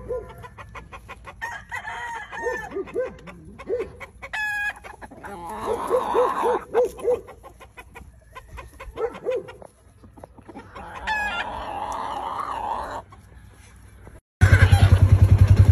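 Roosters crowing, twice, over runs of short clucking calls from chickens. About fourteen seconds in, the birds cut off and a loud, rapidly pulsing mechanical noise begins.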